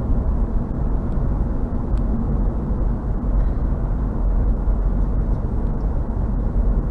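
Steady road noise heard inside a moving car's cabin: tyre rumble and engine, deep and even, with no sudden events.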